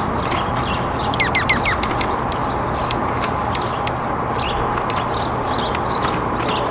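Small songbirds chirping over a steady background hiss, with a quick run of four or five falling whistled notes about a second in and scattered sharp clicks.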